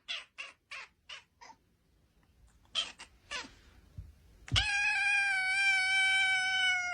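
A cat meowing. A quick run of five short meows comes first, then two more about a second later, then one long, steady meow held for about two and a half seconds.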